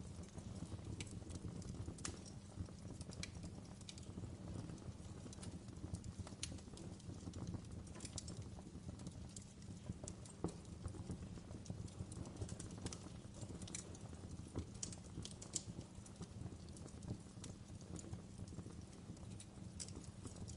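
Wood fire crackling in a fireplace: irregular sharp snaps and pops over a low, steady rumble of the flames.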